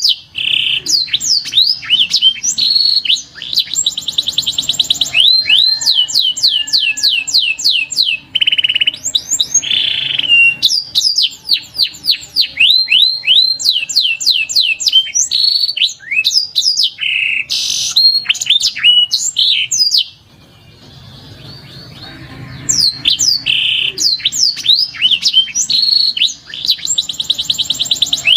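Domestic canary singing: a long song of rapid trills and repeated sweeping whistles. It breaks off about twenty seconds in and resumes a couple of seconds later.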